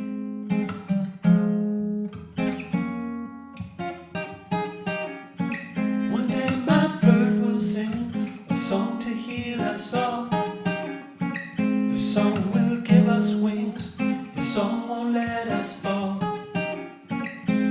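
Acoustic guitar playing a song's instrumental intro, picked notes and strummed chords in a steady rhythm.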